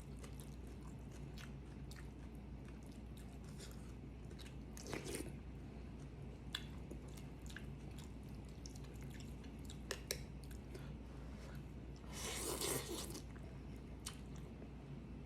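A person chewing and eating close to the microphone, with scattered small clicks. There is a short, louder noisy burst about five seconds in and a longer one about twelve seconds in, over a steady low hum.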